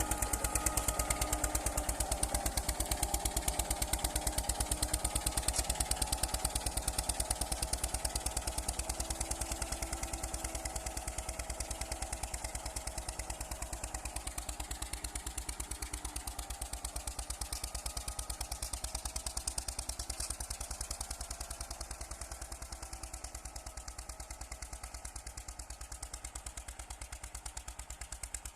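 Eicher 242 tractor engine running under load as it pulls a harrow through a field, a fast, even chugging that slowly grows fainter.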